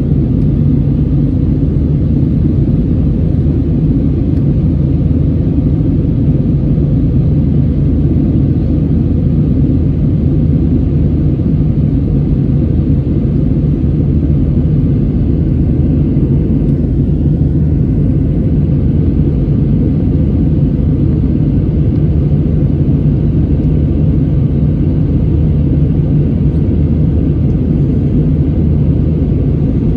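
Steady low drone of an airliner's jet engines and airflow heard inside the cabin during the climb: an even rumble with a few fixed low tones and no change in level.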